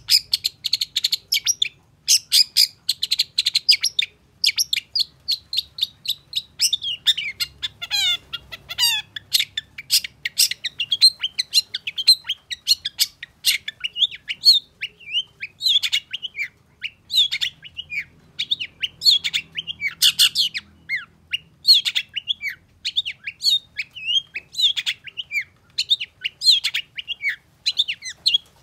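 Long-tailed shrike singing a fast, varied song of short, harsh chattering notes and quick whistles, almost without pause; about eight seconds in comes a short run of notes sliding downward in pitch.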